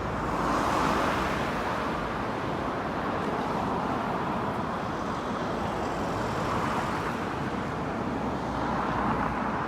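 Road traffic on a busy street: a steady wash of tyre and engine noise, with cars passing and swelling louder about a second in, again after six seconds and near the end.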